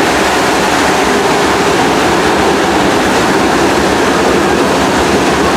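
Steady running noise of a passenger train under way, a loud even rush and rumble of wheels on track heard from aboard the cars.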